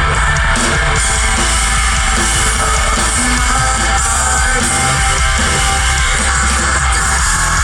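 A live metalcore band playing at full volume, with distorted guitars, heavy bass and pounding drums, recorded from the crowd.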